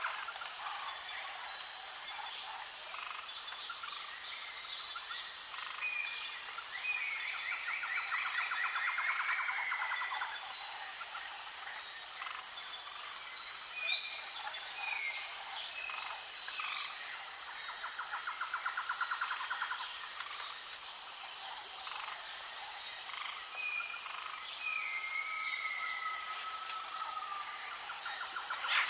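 Outdoor nature ambience: birds calling in short whistled notes that slide up and down, with two stretches of rapid pulsed trilling, over a steady high insect chorus with an even repeating pulse.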